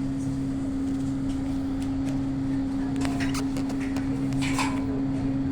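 Passenger train running, heard from inside the carriage: a steady hum with a constant tone throughout, and a few short clicks and rattles about three seconds in.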